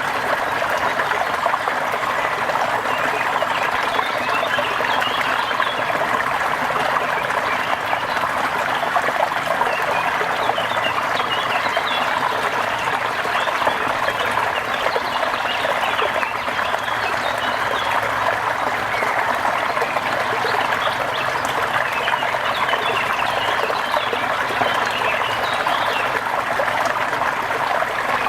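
Steady rain and trickling water, an even hiss that does not let up, with many short, faint chirps scattered through it.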